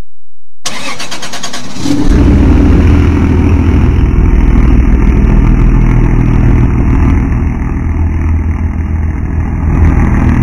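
Toyota engine cranked by its starter for about a second, then catching and running steadily.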